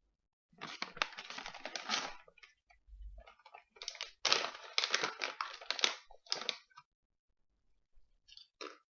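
Crinkling and rustling of a plastic snack bag being handled and opened, in two long crackly bouts followed by a few short crackles near the end.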